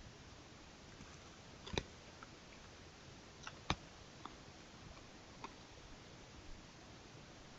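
Faint steady hiss from a trail camera's microphone, broken by a few short, sharp clicks, the two loudest about two and four seconds in.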